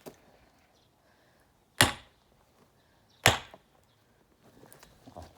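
Two sharp blows of a splitting tool striking a log of firewood, about a second and a half apart.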